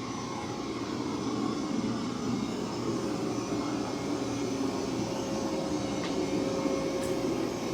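Mova V50 robot vacuum running on carpet at maximum suction: a steady fan drone with a faint constant whine, growing slightly louder.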